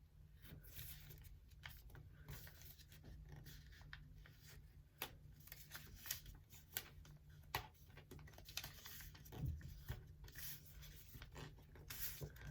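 A sheet of paper being folded and creased by hand, with faint, scattered rustles and crinkles.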